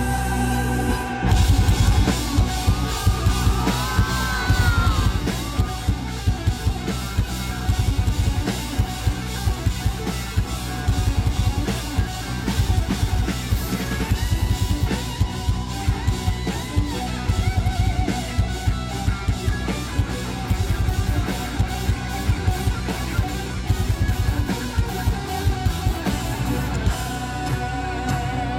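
A live rock band plays an instrumental passage. The drum kit comes in about a second in with rapid, driving kick-drum and drum hits under electric guitar.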